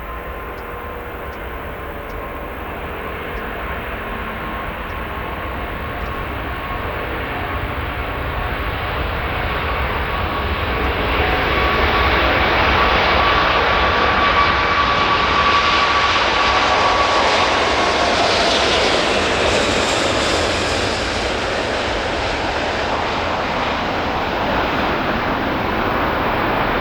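Emirates Airbus A380-800's four jet engines at take-off power as the airliner accelerates down the runway and passes close by. The noise builds steadily for about twelve seconds and stays near its peak, with a whine that falls in pitch as it goes past, then eases slightly near the end.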